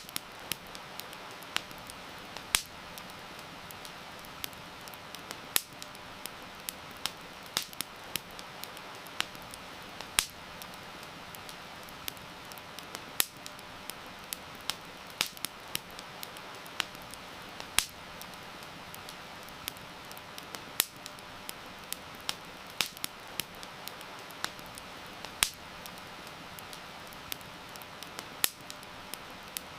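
Wood fire crackling, with irregular sharp pops and snaps, some much louder than others, over a steady hiss of rain.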